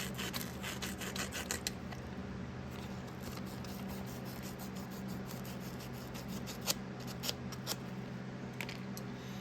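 220-grit sandpaper rubbing the tip of an MSD distributor rotor to clean off corrosion: a quick run of scratchy strokes for about the first two seconds, then occasional short scratches and ticks.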